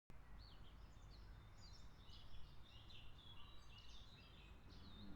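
Birds chirping faintly, many short high calls overlapping throughout, over a soft low outdoor rumble.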